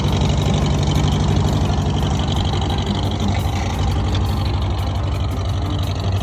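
Old Farmall tractor engine running steadily, with a fast, even exhaust beat.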